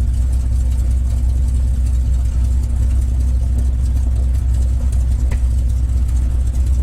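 P-51 Mustang's Merlin V-12 engine idling at about 600–700 RPM while the aircraft taxis, a steady low rumble with no change in pitch.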